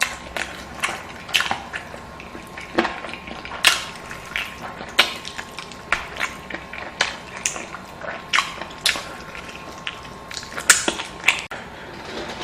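Close-miked eating sounds: irregular wet chewing and mouth smacks, with sharp clicks one to three a second.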